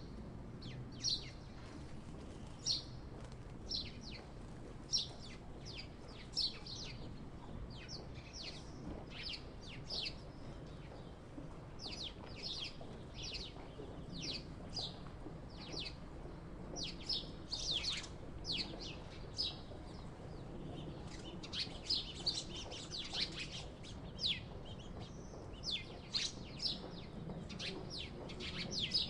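Sparrows chirping: short, sharp chirps about once a second at first, coming thicker and overlapping in the second half.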